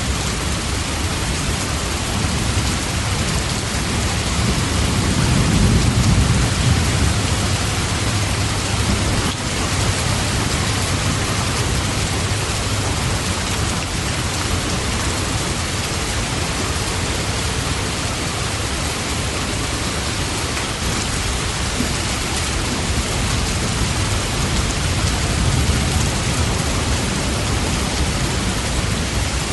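Steady heavy rain hissing evenly. A low rumble swells and fades about five to seven seconds in.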